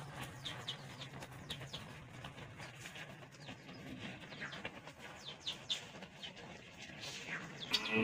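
Small birds chirping: short, high, falling chirps repeated every half second or so. A longer, held call starts near the end.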